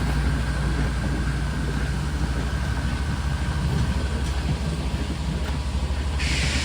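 Diesel locomotive engine idling with a steady low hum. Near the end a steady hiss comes in over it.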